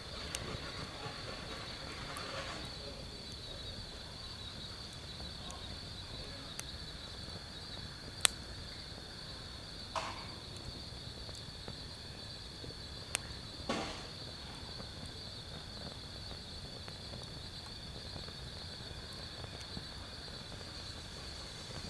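Insects chirping steadily in a high, even trill through the night, with a few sharp isolated pops and short crackles from a wood fire burning in a fire pit.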